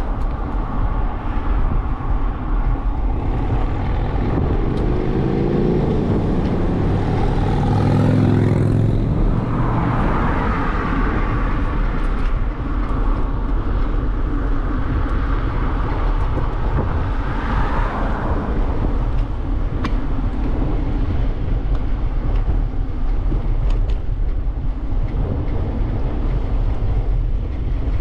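Steady low rumble of wind and rolling noise on a bicycle-mounted camera. A motor vehicle passes about five to nine seconds in, its engine note gliding in pitch as it goes by.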